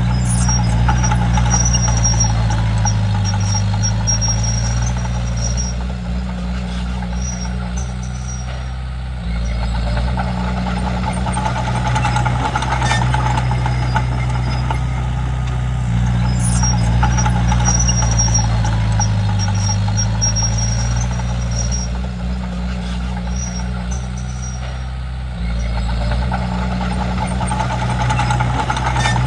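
Komatsu D31P bulldozer's diesel engine running steadily under work. Its level sinks and then jumps back up about nine seconds in and again near the end, in a cycle of roughly sixteen seconds.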